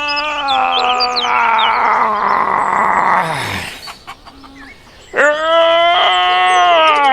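Two long, drawn-out animal calls, each falling in pitch at its end, the second starting about five seconds in after a short lull; birds chirp faintly over the first.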